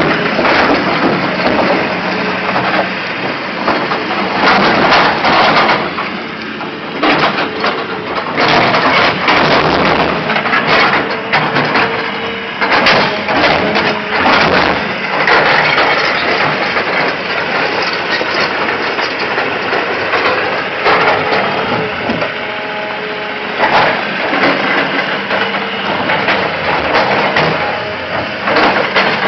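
Caterpillar excavator running and working, a steady din of engine and machinery with frequent sharp knocks and cracks over it.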